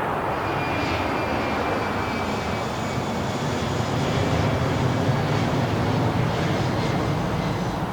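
Airplane engine running, a steady loud drone with faint high whine tones above it.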